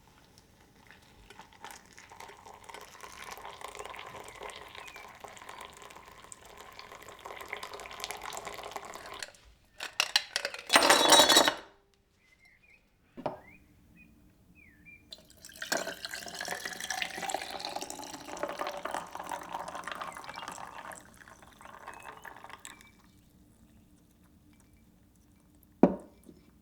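Water running from a kitchen tap into a vessel, in two long stretches with a short loud rush of noise between them. A sharp knock comes near the end.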